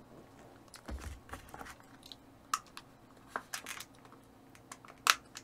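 Soft, scattered clicks and crunches of eating: a bite of bluefin tuna sashimi wrapped in crisp gim (laver) being chewed, with a sharper click near the end.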